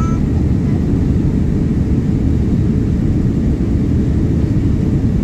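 Steady cabin noise inside a Boeing 787-9 in flight: the low, even rush of engines and airflow.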